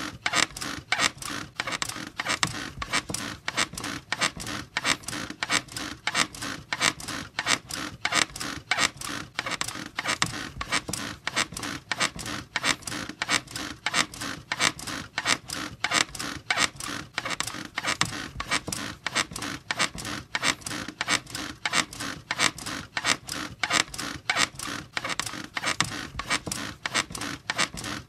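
Bed squeaking in a steady rhythm, about two creaks a second, as if it is being rocked back and forth.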